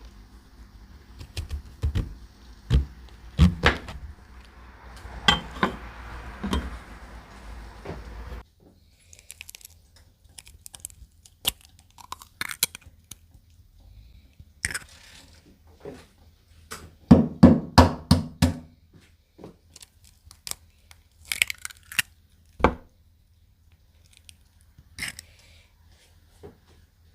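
Kitchen clatter of pots, dishes and utensils: scattered knocks and clinks over a steady low hum and hiss, which cut off abruptly about a third of the way in. After that come sparser clicks and a short run of louder clattering a little past the middle.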